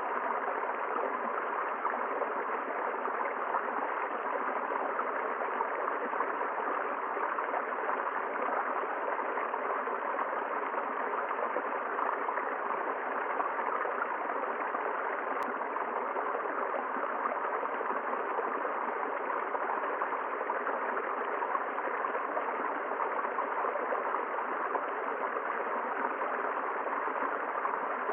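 A river or forest stream flowing over rocks: a steady, unbroken rush of running water. A faint single tick sounds about halfway through.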